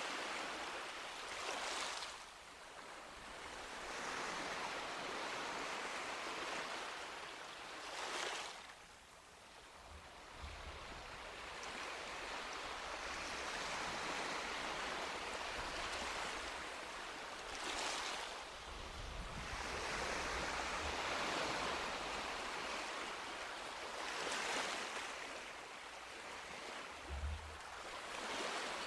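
Sea waves breaking and washing up a beach, the surf swelling and falling back in a repeating cycle, with a sharper crash of a breaking wave four times, every seven to ten seconds.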